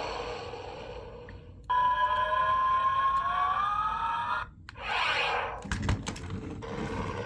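Electronic sound effects from a VTech Switch & Go Dinos velociraptor helicopter toy's small speaker. A noisy sound fades out, then a steady electronic tone starts suddenly and slowly rises in pitch for under three seconds before cutting off, followed by a short noisy burst and a few clicks.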